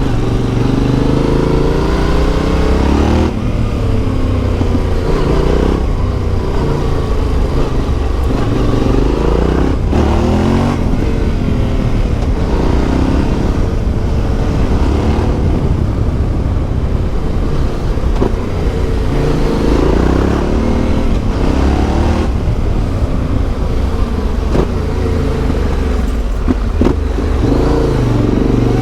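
Yamaha Ténéré 700's CP2 parallel-twin engine through an Akrapovic exhaust, under way, its revs climbing and dropping again and again with throttle and gear changes. A few short knocks stand out.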